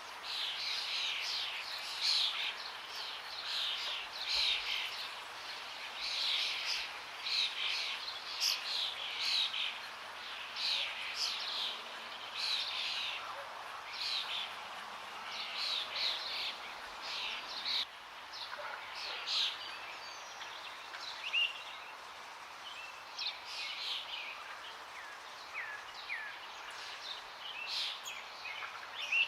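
Songbirds singing and calling in a dense chorus of short, repeated phrases, thinning out about two-thirds of the way through, over a steady rush of flowing water.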